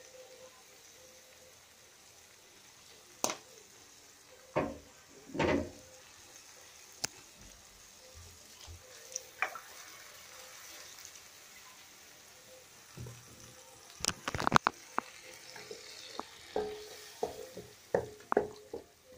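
Sofrito of onion, garlic, peppers, carrot and mushrooms with a splash of wine sizzling quietly in a pan, with scattered knocks and a burst of clattering about three-quarters of the way through.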